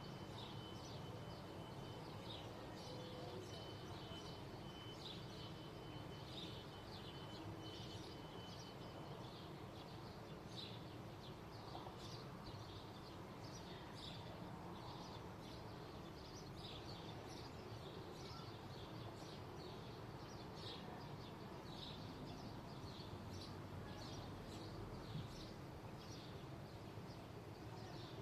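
Small birds chirping, many short calls repeated throughout, over a steady low background hum. A faint steady high tone is heard for about the first third.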